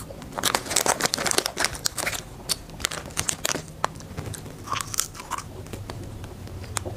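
Close-up crunching and chewing of a crunchy snack: dense crisp crunches in the first two seconds, then slower, sparser chewing crunches.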